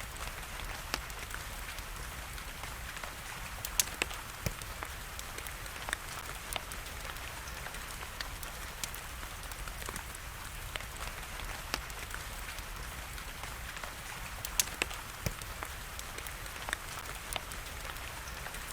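Wood fire crackling with scattered sharp pops, the loudest about four seconds in and again near fifteen seconds, over a steady hiss of rain.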